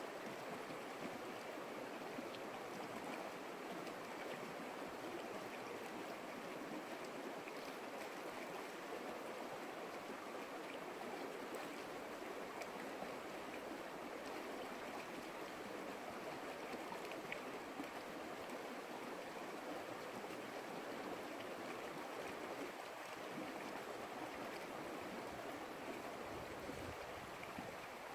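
Creek water flowing, a steady even rush with faint small splashes.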